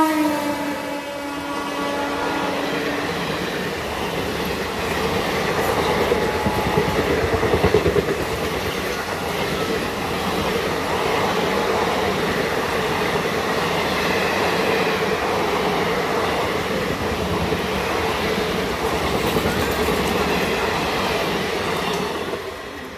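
Indian Railways superfast express hauled by an electric locomotive passing at speed. The end of its horn, lower in pitch as it goes by, fades in the first couple of seconds. Then comes a steady rumble and clatter of coach wheels on the rails, with louder clacks about six to eight seconds in, dropping away as the last coach passes near the end.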